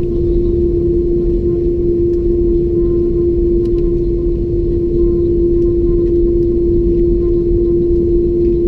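Airbus A330-200 engines heard from inside the passenger cabin: a steady drone with one strong hum tone over a low rumble.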